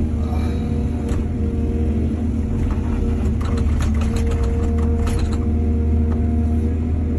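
Excavator's diesel engine running steadily under load, with a run of clattering knocks in the middle.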